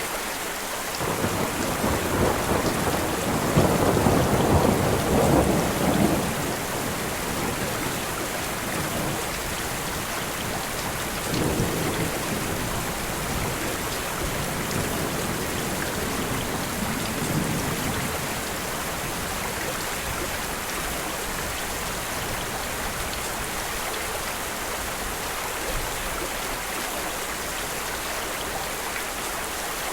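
Steady rain with thunder: a long rolling rumble from about a second in until about six seconds, then two fainter rumbles later on.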